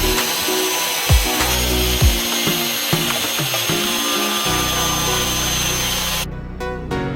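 Electronic background music with a thumping beat, over a power tool running with a steady high whine and hiss that cuts off sharply about six seconds in.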